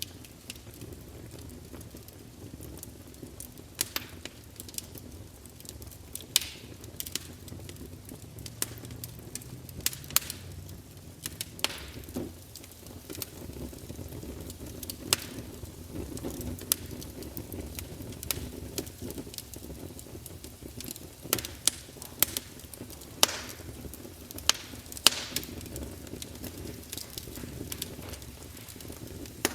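Campfire crackling: burning wood gives irregular sharp pops and snaps, several close together late on, over a steady low rumble of flames.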